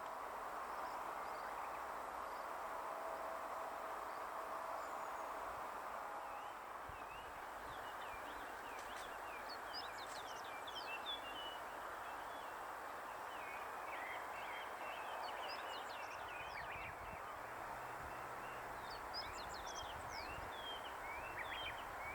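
Small birds chirping in quick, high, scattered calls that come in three clusters, the first starting about a third of the way in, over a steady background hiss.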